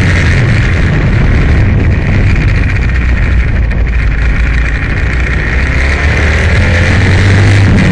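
Aprilia Tuono motorcycle running hard at speed, its engine loud and continuous under heavy noise, with the engine note shifting in pitch as it revs through the gears.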